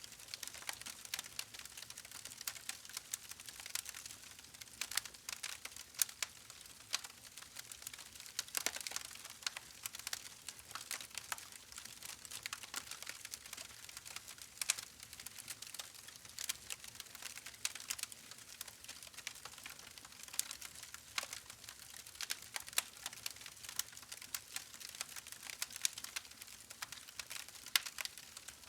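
Campfire crackling: irregular sharp pops and snaps of burning wood over a faint hiss of flames.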